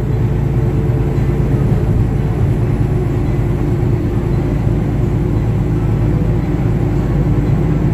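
Semi truck's diesel engine running steadily with road noise, heard inside the cab; the truck is heavily loaded and pulling up a hill.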